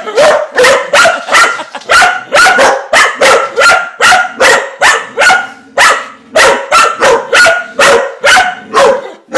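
A dog barking rapidly and repeatedly, about two to three sharp barks a second with a short break partway through: excited play barking at the spinning dishwasher spray arm.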